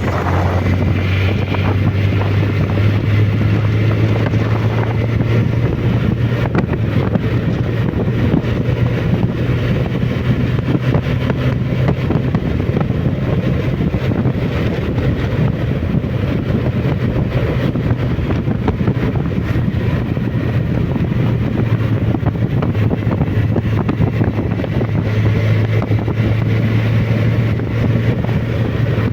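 Suzuki Bandit motorcycle's inline-four engine running at a steady pitch while riding, with wind rush on the microphone.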